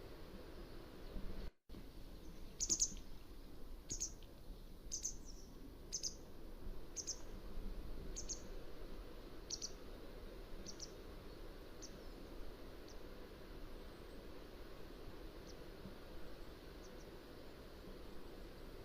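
Mountain wagtail giving a series of short, sharp high-pitched calls about a second apart, fading away after about ten calls, with a few faint calls later, over a steady low background hiss.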